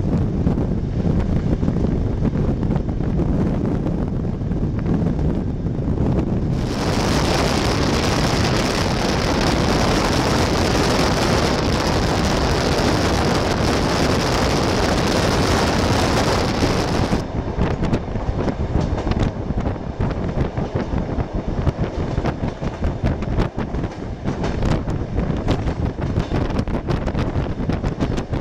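Running noise of a moving passenger train heard from on board: a steady low rumble that changes abruptly twice. There is a louder, hissy stretch in the middle, then rumble with scattered irregular knocks.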